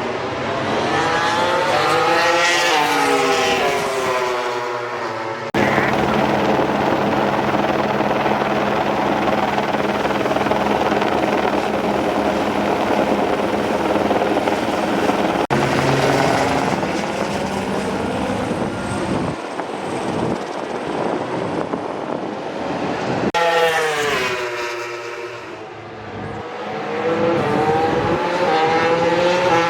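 High-revving race engines sweeping past at speed, each note rising and then falling as it passes, near the start and again in the last few seconds. Between them is a steadier loud engine drone, broken by sudden cuts.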